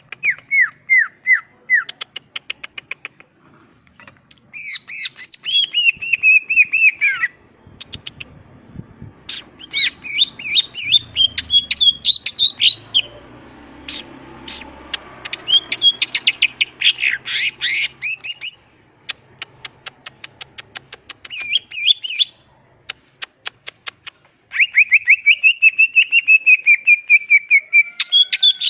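Green leafbird (cucak ijo) singing: busy phrases of quick chirps, downward-sliding whistled notes and rapid ticking runs, broken by short pauses.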